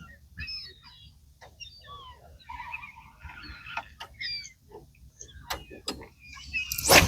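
Birds calling, with many short chirps and whistles, and a few sharp clicks. A loud bump near the end.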